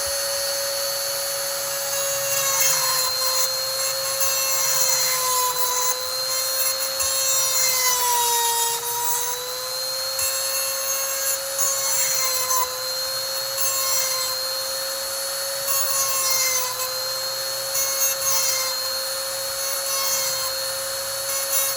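Electric chainsaw sharpener's small motor whining at high speed while its grinding stone rasps against the chain's cutter teeth in repeated short passes. The motor's pitch sags briefly under load about eight seconds in.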